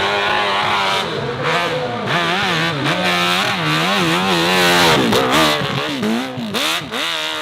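Off-road motocross bike engine revving hard on a steep hill climb, its pitch rising and falling over and over as the throttle is worked. From about five seconds in, the revs swing up and down faster in short blips, typical of the rear wheel losing and finding grip.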